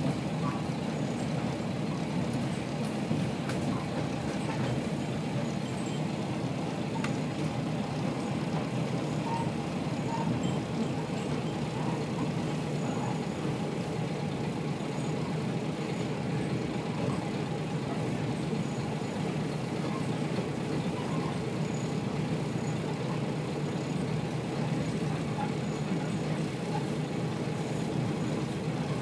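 Steady running noise inside a Kashima Rinkai Railway 6000 series diesel railcar moving at speed: the even rumble of the diesel engine and the wheels on the track.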